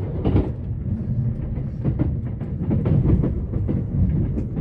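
E353 series limited express electric train running along the line, heard from inside the passenger car: a steady low rumble with frequent clicks and knocks of the wheels on the track.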